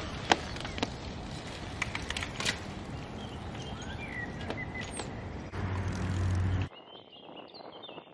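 Outdoor ambience: a steady rushing noise with birds chirping and a few sharp clicks. A heavier low rumble swells near six seconds, then the sound cuts off abruptly to a quieter stretch where birds chirp.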